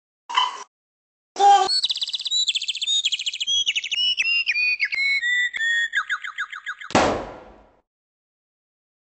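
Small bird singing: a brief note, then a rapid series of trilled notes that step down in pitch over about five seconds, ending in a loud noisy burst that fades out.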